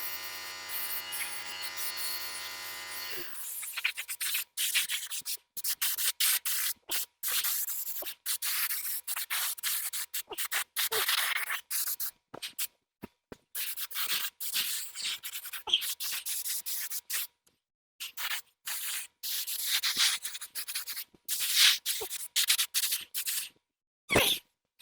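A small electric tool hums steadily and winds down about three seconds in. Then come irregular back-and-forth hand rubbing strokes on a part, like sanding, with short pauses between them.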